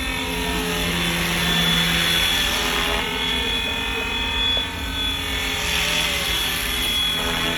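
Remote-control model helicopter in flight, its rotors and motor giving a steady whirring whine, with the pitch gliding up and down.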